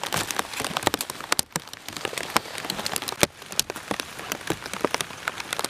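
Rain falling on a tarp shelter: a dense, irregular run of sharp drop hits over a steady hiss of rain.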